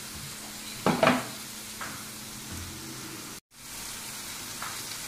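Sliced onions frying in butter with chilli powder and garam masala in a steel kadai: a steady sizzle. A metal spoon scrapes and clinks against the pan about a second in. The sound cuts out for a moment about three and a half seconds in.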